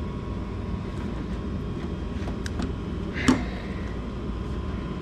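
Light clicks and one sharp knock, about three seconds in, from hand work on parts inside a car door, over a steady low background rumble.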